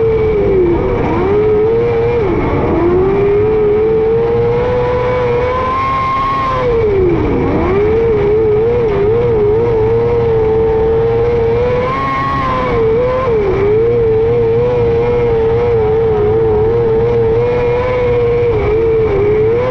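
A micro sprint car's engine running hard on a dirt oval. The engine note holds high, then drops sharply and climbs back as the throttle is lifted and reapplied for the corners, three times, with smaller wavers between.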